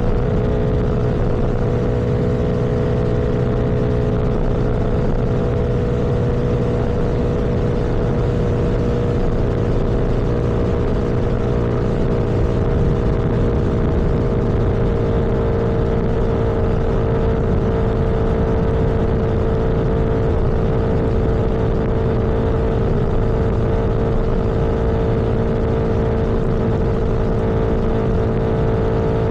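A vehicle engine running steadily at cruising speed under wind and road noise. Its pitch eases slightly lower about halfway through.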